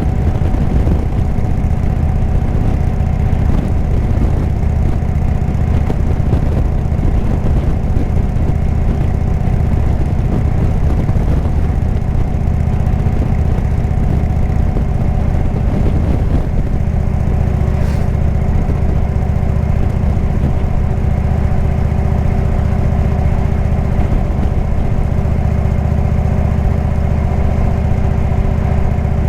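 Indian V-twin motorcycle engine with a Jekill & Hyde exhaust running steadily under way, its note shifting about halfway through.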